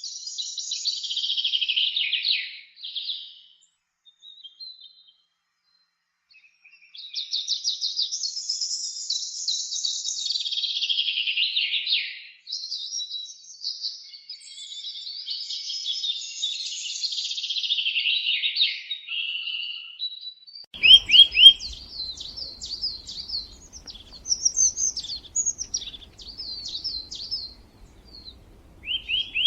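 Songbirds singing in long, fast trilling phrases that slide down in pitch, with a pause of a few seconds after the first phrase. About two-thirds of the way in, shorter repeated chirps take over, with a faint low hum beneath.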